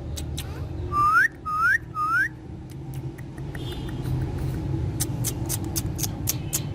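Three short rising whistles about half a second apart, followed a few seconds later by a quick series of sharp clicks.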